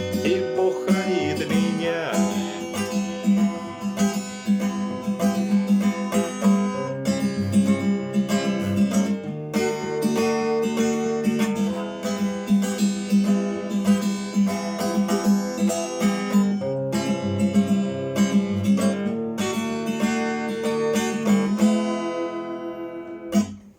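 Acoustic guitar strumming chords, the instrumental ending of the song after the last sung line; the strumming dies away near the end.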